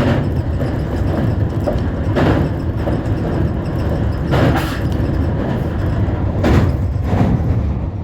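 Tobu Tojo Line train running, a steady low rumble with swells of louder noise about every two seconds.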